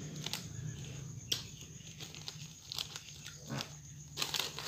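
A person chewing and crunching a snack close to the microphone, with irregular sharp crunches and mouth noises, over a low steady hum.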